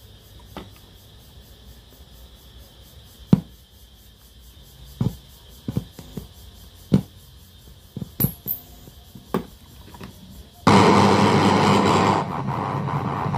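A series of separate sharp clicks and knocks, then a loud steady hiss-like noise that starts suddenly near the end and drops a little soon after.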